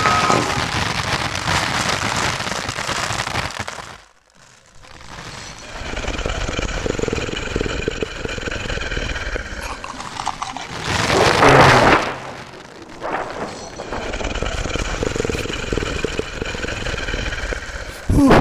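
Homemade foley standing in for a rainstorm: a steady hiss like pouring rain that drops out briefly about four seconds in. A louder, rougher burst rises out of it at about eleven seconds.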